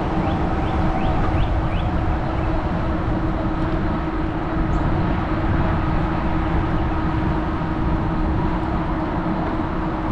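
Fat-tire electric bike riding along at speed: wind rushing over the handlebar-mounted microphone and tyre rolling noise, with a steady hum under it. A few short rising chirps sound in the first two seconds.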